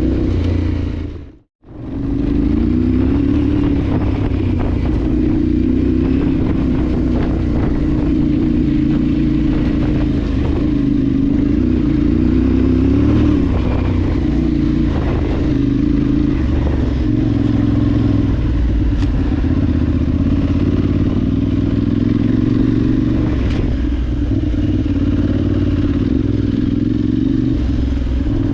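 Parallel-twin adventure motorcycle engine running under way off-road, its note wavering up and down with the throttle, with scattered knocks and rattles from the rough ground. The sound drops out briefly about a second and a half in.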